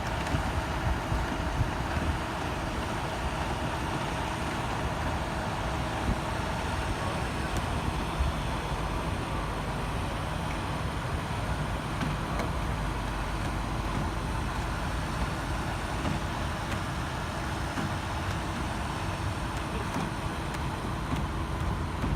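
A vehicle engine running steadily: a low, even hum with a few faint steady tones over it.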